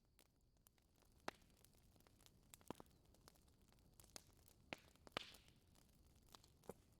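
Wood fire in a fireplace crackling faintly: scattered sharp pops and snaps at irregular intervals over a low steady hiss.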